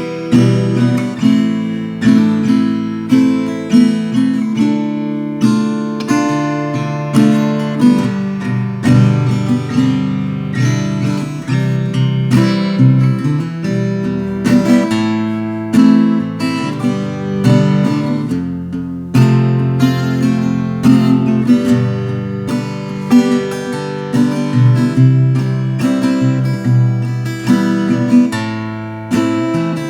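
Veelah Mini Camper R mini acoustic guitar played solo, with a steady stream of strummed and plucked chords, each attack ringing out and fading into the next.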